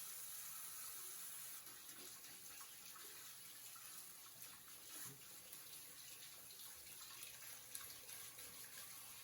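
Faint, steady hiss of running water, with a few light ticks.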